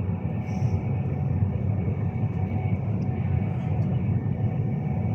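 Steady low rumble of a Class 390 Pendolino electric train running along the line, heard from inside a passenger coach.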